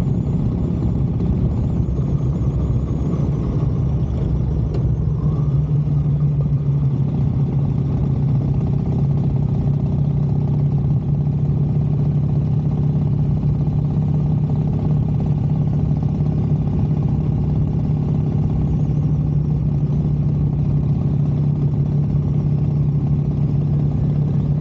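Harley-Davidson motorcycle engine running while riding. Its pitch wavers over the first few seconds, then holds steady at a constant cruising speed.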